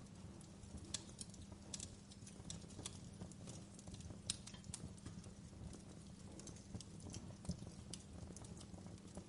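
Fireplace fire crackling: irregular sharp pops and snaps, a few a second, over a low steady rumble.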